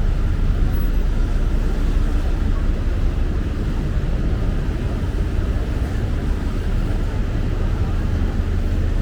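Steady low rumble of city road traffic, even throughout with no distinct horns or knocks standing out.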